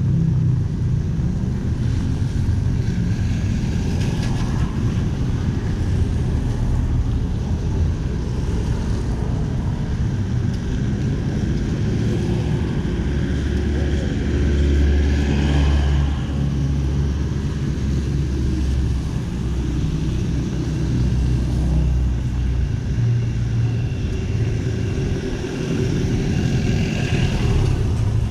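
City street traffic: cars and motorcycles passing with a steady engine rumble that grows heavier as a vehicle goes by midway.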